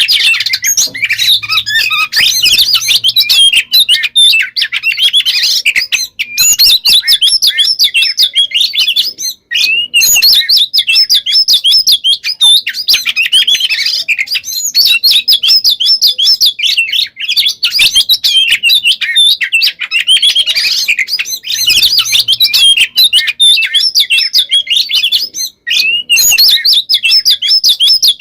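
Oriental magpie-robin (kacer) singing a loud, rapid, endlessly varied song of whistles and warbles, run together almost without pause, broken only by a few brief gaps. This is the continuous 'gacor konslet' singing of a bird in full song.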